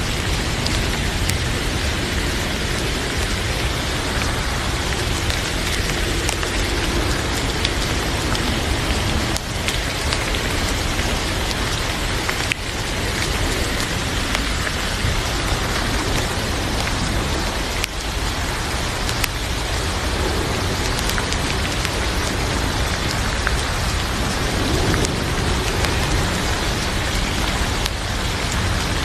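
Heavy rain falling steadily, with scattered small clicks and pops of a wood fire crackling in a fireplace.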